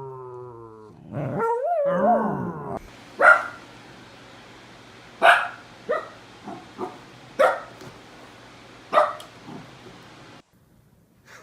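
A dog howling with a wavering pitch for the first few seconds, then a dog barking: four loud barks about two seconds apart, with quieter barks in between.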